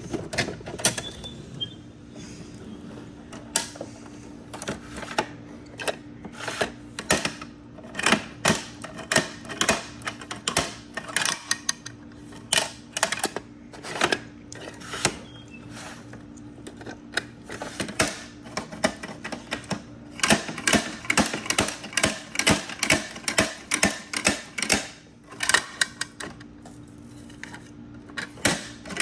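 Toy garbage trucks being handled: irregular sharp clicks and clacks, coming thick and fast for a few seconds about two-thirds of the way through, over a steady low hum.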